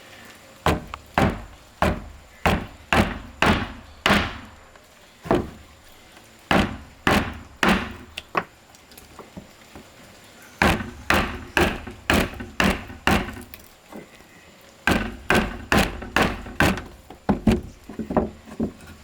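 A tool striking wood over and over, in runs of several blows about two a second with short pauses between the runs.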